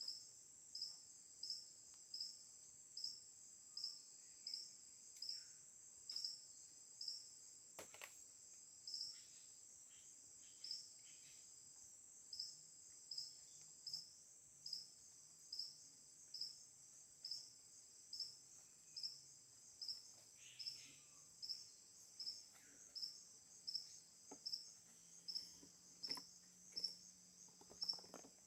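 Insects trilling steadily at a high pitch, with a louder chirp repeating evenly about three times every two seconds. A single faint click comes about eight seconds in.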